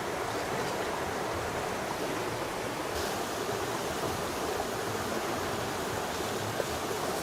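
Steady rush of flowing water from a stream, with a faint click about three seconds in.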